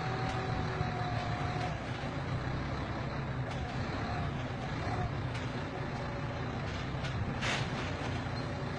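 Scania truck's diesel engine running steadily at a low rumble, with a short hiss about seven and a half seconds in.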